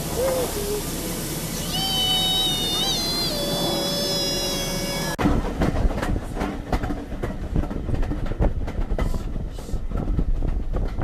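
Steam locomotive hissing, with a high whistle-like tone that bends in pitch about two seconds in. About five seconds in, the sound cuts abruptly to the low rumble and irregular rail knocks of a moving train carriage.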